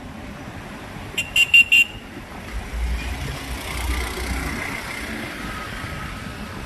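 Four quick toots of a vehicle horn about a second in, over steady street traffic noise, followed by the low rumble of a vehicle's engine going past.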